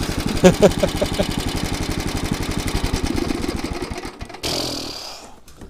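Small petrol engine of a motorised tow running with an even beat of firing pulses, fading over about four seconds until it stops. A short hiss follows.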